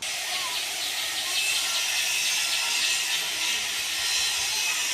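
Dense, steady chorus of many small birds chirping at once, heard as a high-pitched hiss-like wall of calls that starts abruptly.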